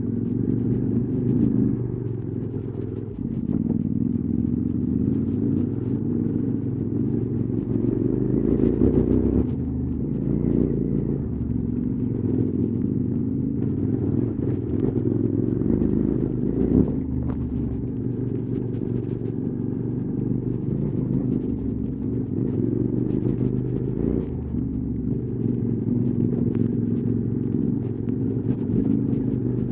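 QJ SVT650X motorcycle's parallel-twin engine, breathing through an Arrow slip-on exhaust, running on and off the throttle with the revs rising and falling. Scattered clicks and knocks sound throughout, and there is one sharper knock about two-thirds of the way through.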